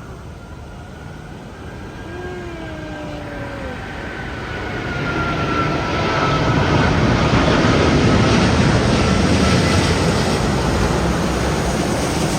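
Jet airliner passing low overhead: a roar that builds over several seconds, peaks about two-thirds of the way through and then eases slightly, with a high engine whine that drifts down in pitch as it goes by.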